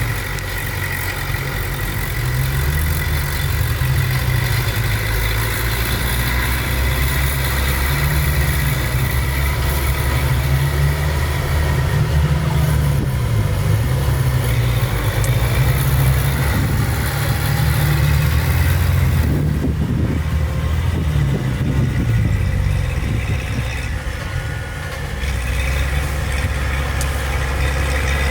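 Heavy diesel engine of earthmoving machinery running, its low note rising and falling as the load and revs change.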